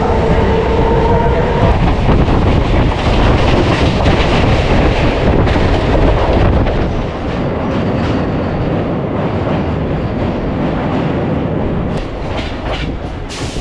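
Train running on its rails: a loud, steady rumble with wheel clatter, with a steady whine that stops about two seconds in and the noise easing off about seven seconds in.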